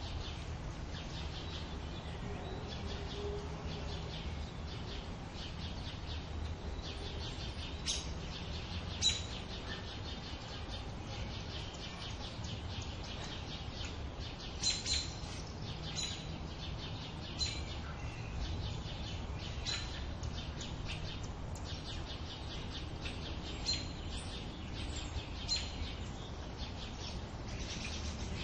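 Birds chirping: short, high calls every second or two over a steady low background noise.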